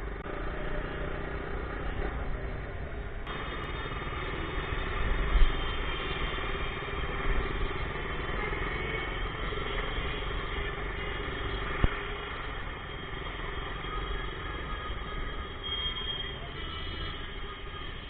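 Road traffic heard from a moving motorcycle: engines running and the rumble of surrounding vehicles, with a loud knock about five seconds in and a sharp click near twelve seconds.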